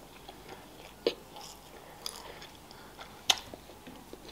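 A mouthful of pizza being chewed with the mouth closed, close to the microphone: soft mouth clicks, with two sharper smacks about a second in and again past three seconds.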